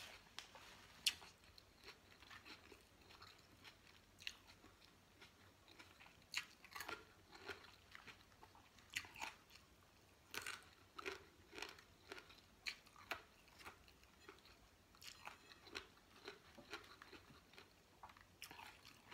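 Quiet, close chewing and biting of a spicy Thai salad with crisp raw vegetables, eaten by hand. Irregular short crunches come about one or two a second.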